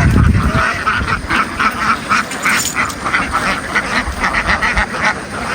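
A large flock of ducks quacking continuously, many overlapping calls. A low thump sounds right at the start.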